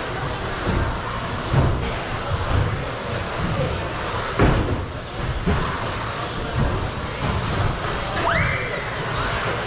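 Radio-controlled stadium trucks racing on the track: a steady din of motors and tyres, broken by a few sharp knocks, with a thin motor whine that sweeps up in pitch near the end.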